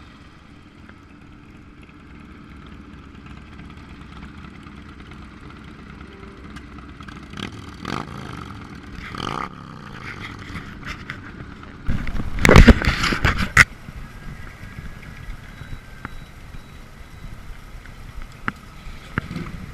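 Motorcycle engine running, with its pitch rising and falling twice around the middle as the revs change. A loud burst of noise about twelve seconds in lasts a second and a half.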